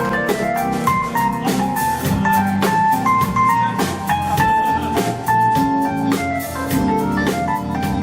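Live band playing an instrumental passage: drum kit, bass, keyboards and guitar, with a held lead melody over a steady beat and no singing.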